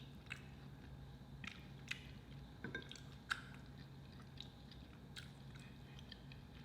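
Faint close-up chewing, with soft wet squishes and small sharp mouth clicks every second or so, over a low steady hum.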